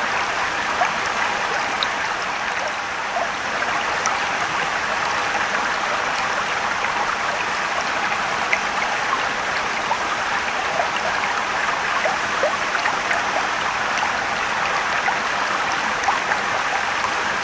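Mountain stream and waterfall running steadily, a continuous rush of water with small splashes and trickles.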